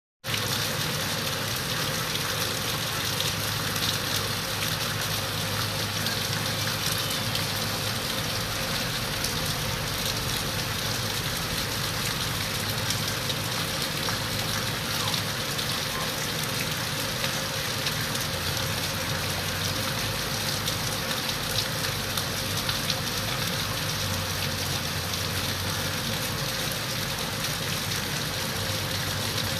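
Steady rainfall, a continuous even hiss of drops with fine pattering that does not let up.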